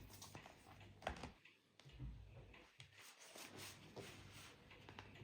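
Near silence: room tone with a few faint clicks and knocks, typical of a package being handled.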